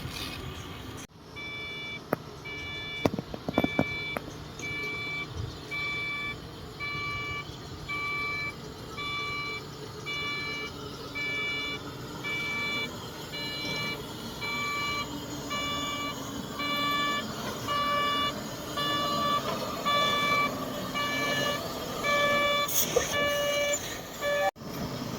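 A heavy machine's reversing alarm sounding a steady series of evenly spaced electronic beeps, a little over one a second, which signals that the machine is backing up. A few sharp knocks come a few seconds in.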